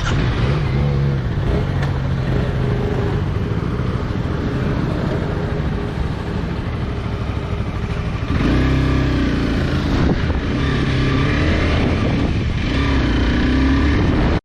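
Motorcycle engine running while the bike is ridden along the road. It gets louder, with a changed engine note, from about eight seconds in.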